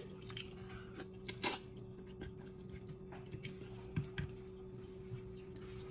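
Eating sounds of noodles and rice cakes being chewed: soft wet mouth noises with scattered small clicks, one sharper click about a second and a half in, over a faint steady hum.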